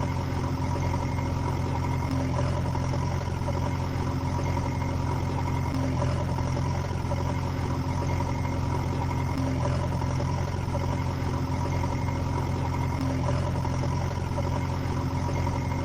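Steady, unchanging engine idling sound with a deep hum and a faint beat repeating about once a second.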